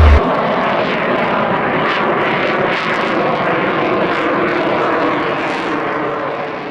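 Fixed-wing aircraft engine noise, a steady loud rush that begins to fade near the end.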